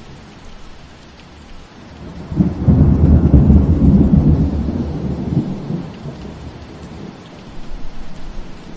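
Steady rain falling, with a deep roll of thunder that breaks in about two and a half seconds in, rumbles loudly for about three seconds and fades away.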